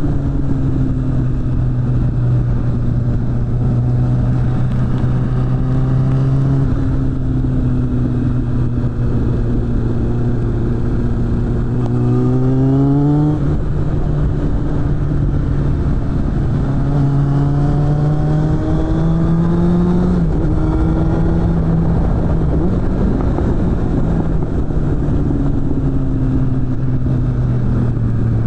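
Suzuki GSF600 Bandit's inline-four engine through a BOS aftermarket exhaust, heard riding along: steady at first, then the revs climb about twelve seconds in and drop at a gear change, climb again to another shift around twenty seconds, and ease off near the end. Wind rush runs underneath.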